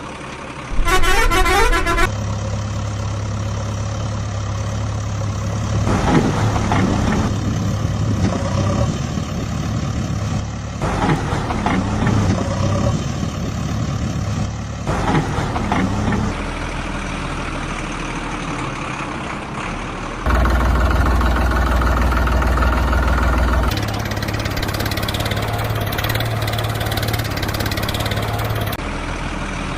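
Heavy-vehicle engine sounds running steadily, in segments that switch abruptly every few seconds. A short tooting vehicle horn sounds about a second in.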